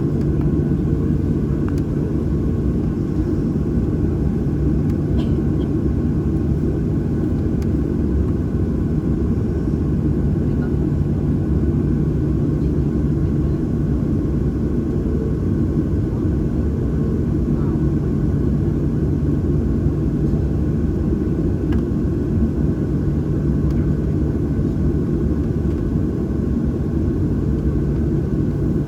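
Steady cabin rumble of a Boeing 737-800 with its CFM56-7B turbofan engines running at a constant low power, heard from inside the cabin, with a few faint ticks.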